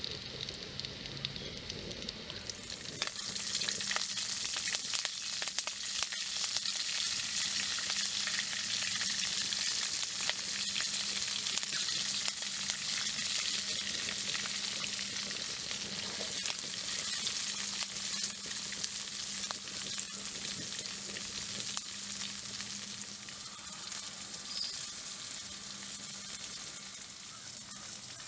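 Curry leaves and sliced shallots frying in hot oil in an iron wok: a steady sizzle flecked with small spitting crackles, turning much louder about two and a half seconds in.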